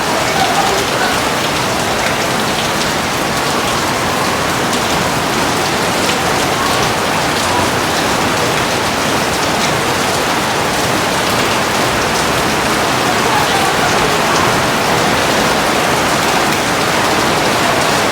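Heavy rain falling steadily: an even, dense hiss with scattered sharp drop ticks.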